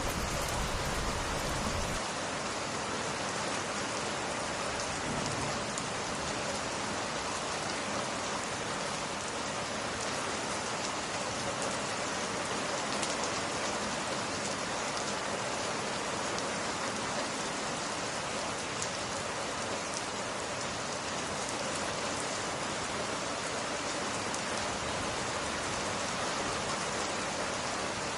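Steady rain falling on glass, an even hiss with faint patter of drops. About two seconds in, the deep low rumble drops away.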